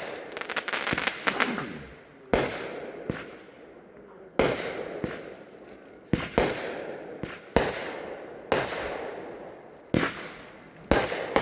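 A 15-shot 'Neon Mirage' consumer firework cake firing: a string of sharp bangs about a second apart, each with a fading tail. A burst of crackling comes about a second in.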